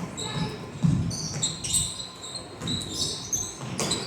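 Basketball sneakers squeaking on a hardwood gym floor: many short, high chirps in quick succession, over low thuds and the hum of a large gym.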